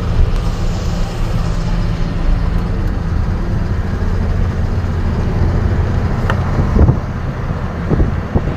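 Truck engine running steadily on the move, with road noise. A few sharp knocks or bumps come near the end.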